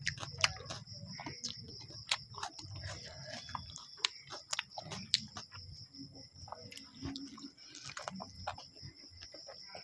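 Close-up eating sounds of someone chewing chow mein noodles and fried egg: wet chewing and sharp mouth clicks and smacks at an irregular pace. A steady high-pitched tone runs underneath.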